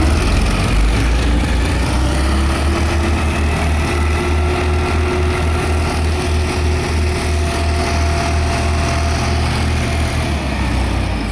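Tractor diesel engine running hard under heavy load in sand, a loud low throbbing with a steady engine note throughout.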